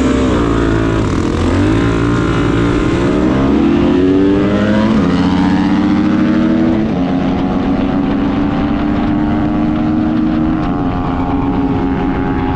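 Suzuki DR-Z400S single-cylinder four-stroke dirt bike engine pulling under throttle. Its pitch climbs, drops in steps with upshifts about five and seven seconds in, then holds steady at a cruise.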